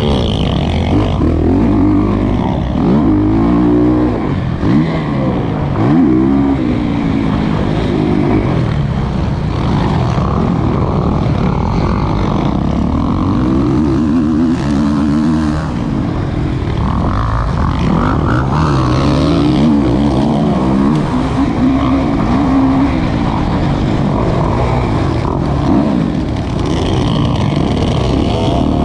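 Kawasaki KX450's four-stroke single-cylinder engine, heard onboard, revving up and falling back again and again as the rider works the throttle and gears.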